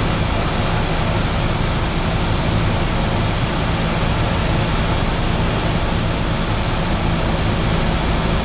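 Cessna 172R's four-cylinder Lycoming engine and propeller droning steadily in flight, heard inside the cabin with a constant rush of air over it.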